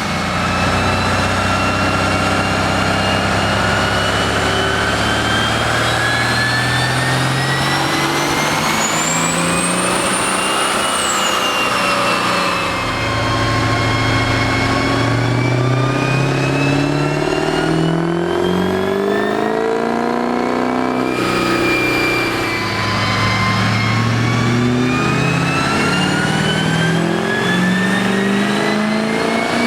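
Diesel pickup truck engine revving up in three long, slow climbs, each with a high whine rising alongside and each dropping away before the next, like pulls on a chassis dyno.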